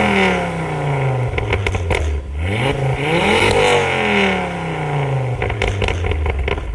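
A V8 car engine being revved: its pitch falls away from a peak, climbs to another high rev about three and a half seconds in and drops back. Near the end comes a quick run of sharp exhaust cracks.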